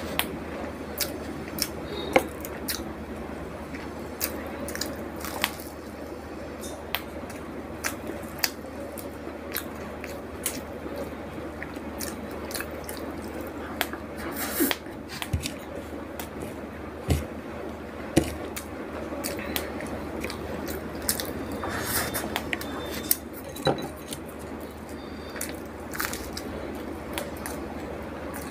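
A person eating a rice and fish-curry meal: chewing and wet mouth sounds, with many scattered small clicks and taps from the food and the plate.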